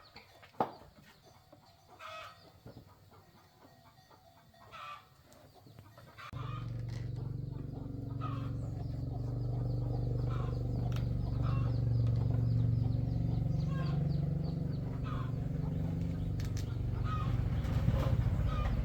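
Chickens clucking. About six seconds in, a motorcycle engine starts running steadily under them and keeps going.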